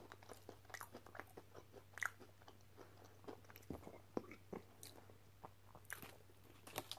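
Faint close-up chewing of fast food: soft mouth clicks and small crunches at irregular moments, with a low steady hum underneath.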